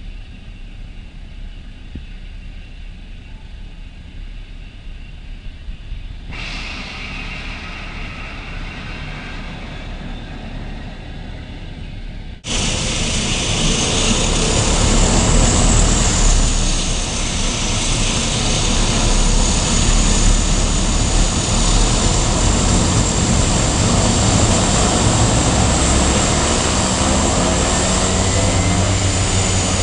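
Jet aircraft engine noise: a low rumble at first, then about twelve seconds in an abrupt jump to a much louder rushing engine sound with a high steady whine over it.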